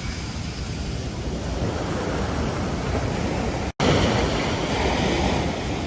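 Ocean surf breaking and washing on a beach, a steady roar of waves. The sound cuts out for an instant nearly four seconds in and comes back a little louder.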